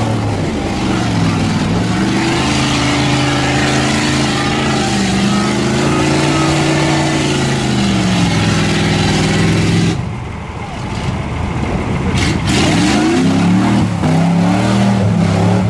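Mud-bogging Chevy 4x4 truck engine revving hard, its pitch climbing and falling again and again as it is driven through deep mud. The sound drops off suddenly about ten seconds in, then the revving rises again.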